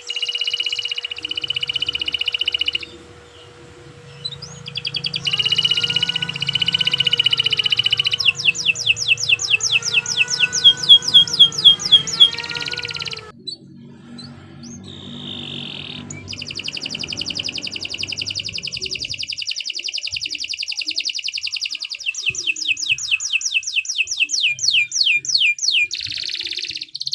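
Domestic canary singing a long, continuous song. Sustained buzzy trills alternate with fast runs of sharp repeated notes, about six a second, with a short break about halfway through.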